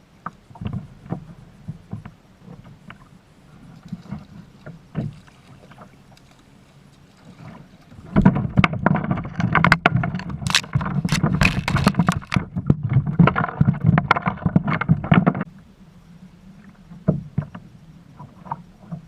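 Knocking and water sounds on a fishing kayak: scattered knocks, then about seven seconds of dense, loud rattling, knocking and splashing in the middle, then scattered knocks again.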